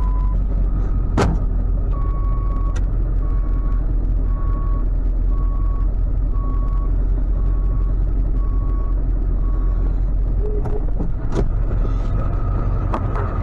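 Tow truck engine running steadily, with a backup alarm beeping about once a second for some eight seconds; a few sharp clicks sound in between.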